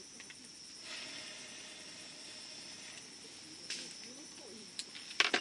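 Wood campfire burning, with scattered sharp crackles and pops and a quick cluster of louder cracks near the end. A steady high-pitched hum runs underneath.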